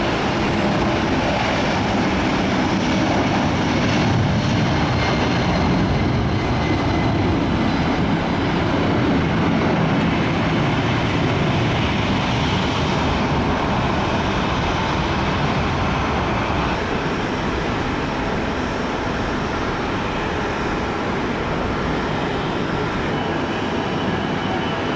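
Airplane engines running loud and steady, a continuous rush of engine noise that eases off slightly in the second half.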